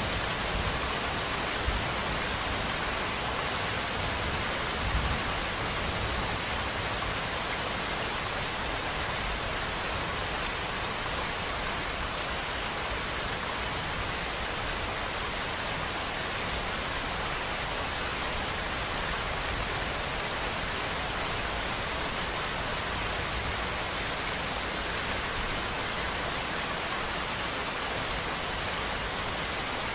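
Steady, continuous rainfall, a dense even hiss of drops on surfaces. In the first few seconds a low rumble sits underneath, with two brief louder knocks.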